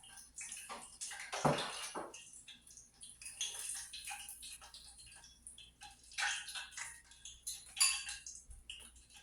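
Kitchen handling sounds: utensils and food clicking, knocking and scraping against a bowl and pans in irregular bursts, the loudest around one and a half seconds in and near eight seconds in.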